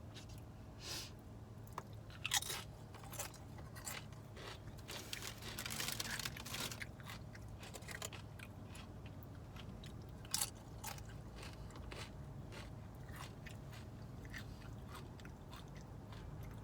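Close-up chewing and biting of crunchy food, with irregular crunches, busiest about midway, over a steady low hum.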